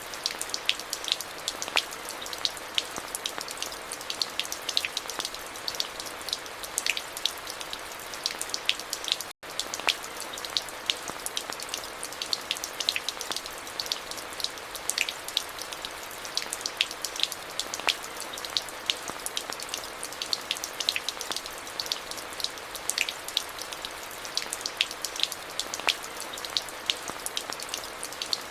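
Steady rain, with many close individual drops ticking sharply over a constant hiss. The sound cuts out for a split second about nine seconds in.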